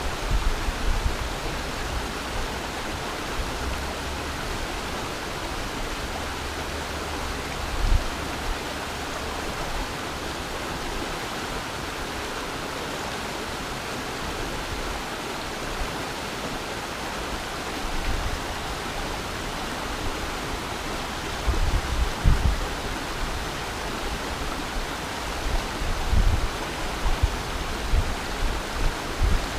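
Steady rush of a flowing mountain stream, with occasional low rumbles that come more often near the end.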